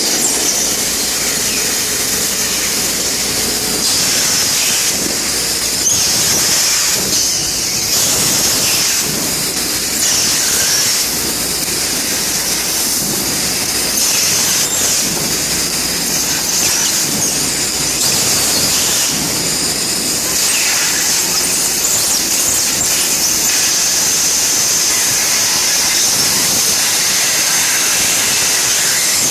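CNC laser cutting machine running, a loud steady high hiss with slight shifts every few seconds.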